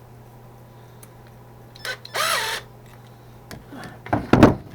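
A power driver runs briefly, about half a second, about two seconds in, its pitch dipping and rising under load as it tightens a hose clamp's screw; a short low thump of handling follows near the end.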